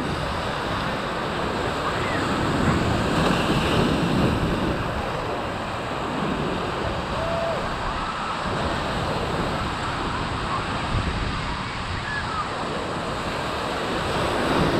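Ocean surf washing in and breaking, swelling louder a couple of seconds in, with wind buffeting the microphone.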